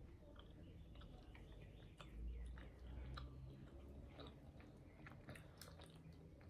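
Faint chewing: a person eating, with soft, scattered wet mouth clicks close to the microphone.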